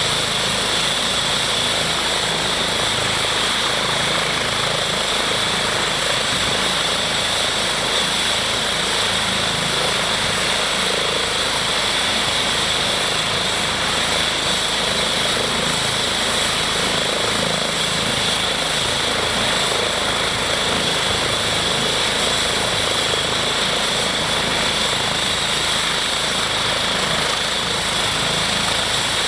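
Eurocopter EC135 T2 helicopter running steadily, the high whine of its twin turbine engines over the rotor noise, holding level without rising or falling.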